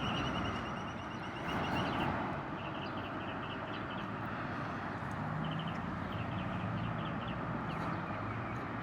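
Outdoor ambience: a steady wash of distant traffic noise, with short runs of quick, high chirps from birds coming and going.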